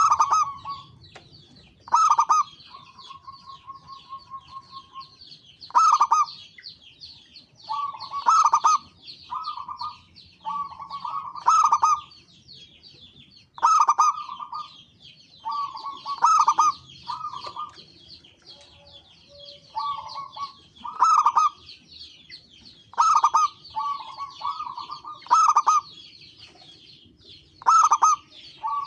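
Zebra doves (perkutut) cooing, a loud call phrase every two to three seconds, over a continuous high twittering.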